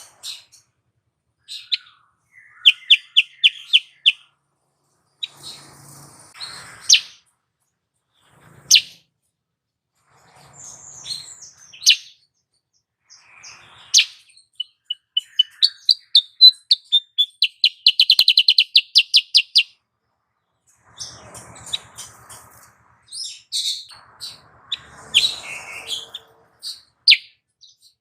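Female kutilang sutra calling: irregular high chirps and short, quick trills, with a longer, fast run of repeated notes about two-thirds of the way in. It is a lure call meant to rouse a male into singing.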